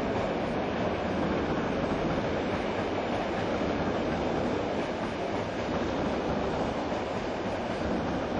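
A train running along the track, a steady noise of wheels on the rails.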